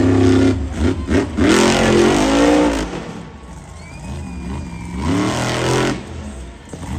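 Monster truck engine revving hard in throttle bursts, the pitch sweeping up and down, loudest about a second and a half in and again about five seconds in.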